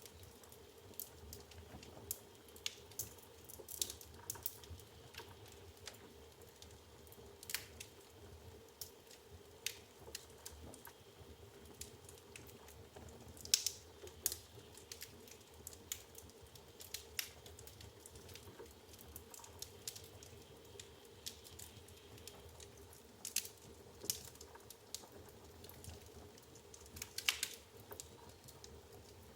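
Burning firewood crackling in an open fireplace: irregular sharp pops and snaps, a few louder ones, over a faint steady hiss of the fire.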